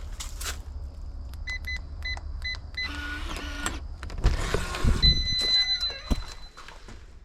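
A series of short electronic beeps, then one longer beep about five seconds in, over a low steady rumble. Between them come a few rustles and thumps.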